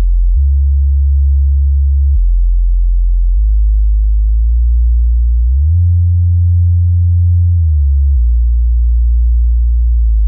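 Subwoofer test tones from a sound-check track: a loud, steady, very deep sine tone that steps between low pitches every couple of seconds. It glides up to a higher bass note about halfway through and slides back down near the end.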